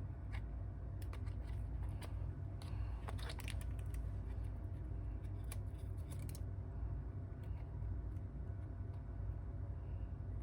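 Light clicks and taps of small tools and phone parts being handled during a smartphone repair, thinning out about six seconds in, over a steady low hum.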